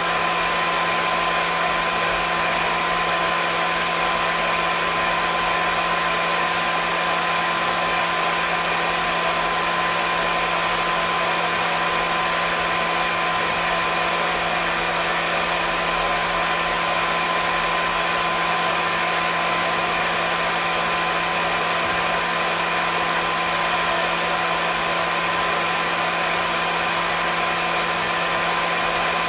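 Hair dryer running steadily: an even rushing of air with a steady motor whine underneath, unchanging throughout.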